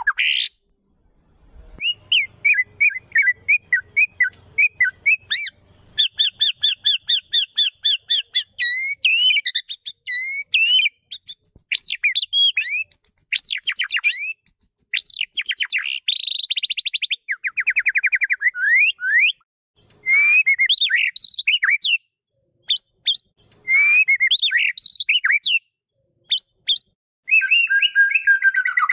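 White-rumped shama (murai batu) singing a varied song: runs of fast repeated chirps, whistled notes sliding up and down, and trills, broken by a few short pauses in the second half.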